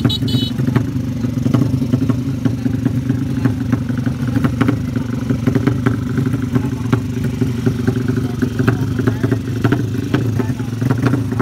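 Motorcycle engine running steadily, with scattered short clicks and clatter.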